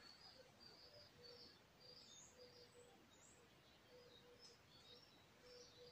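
Near silence, with faint birds chirping in short high notes over quiet room tone.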